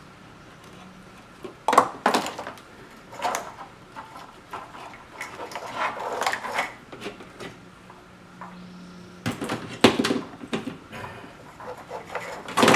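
Hands working a car's engine wiring harness through a tight spot: scattered sharp clicks and knocks of plastic connectors and metal against parts, with rustling of the loom being pulled between them.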